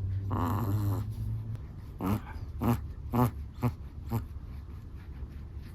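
Sleeping Chihuahua snoring: a low rumbling snore with a nasal pitched note in the first second, then five short pitched snorts about half a second apart.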